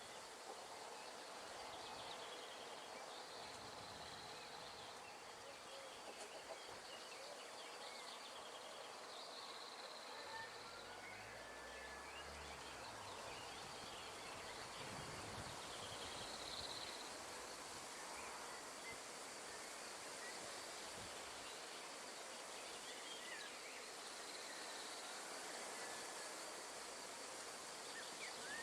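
Wind rustling through tree leaves, a steady soft hiss, with a few faint bird chirps scattered through it.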